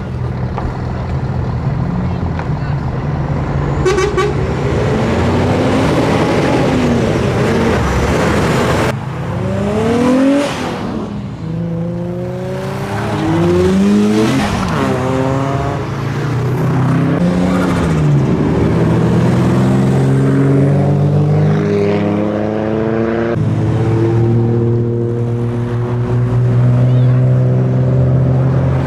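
Modified Japanese performance cars driving past one after another. Their engines rev and rise in pitch as they accelerate, then drop back at each gear change. Among them are a Nissan 300ZX and an R33 Nissan Skyline.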